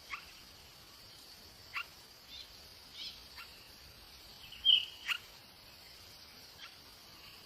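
Short, sharp bird chirps, about eight of them a second or so apart, the loudest a little past the middle, over a steady high drone of crickets.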